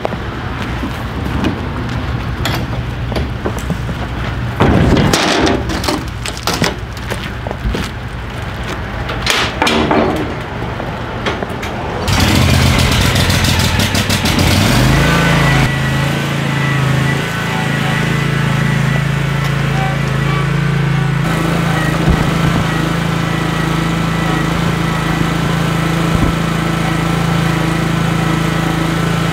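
Clatter and knocks over a low hum, then an engine starts about twelve seconds in. It rises in pitch a few seconds later and settles into a steady run.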